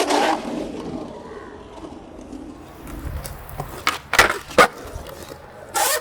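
Skateboard wheels rolling on concrete, with two sharp clacks of the board a little after four seconds in and a short burst of noise near the end.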